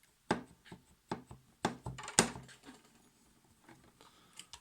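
A run of sharp clicks and knocks, about six in the first two and a half seconds, then a couple of faint ticks near the end, from small screws and parts being worked loose on a vintage Necchi sewing machine's handwheel.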